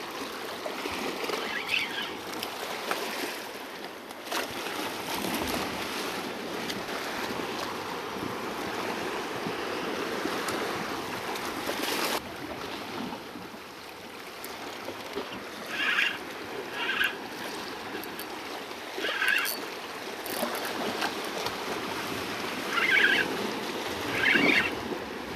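Sea waves washing against rocks, a steady rushing wash, with several short higher-pitched sounds in the second half.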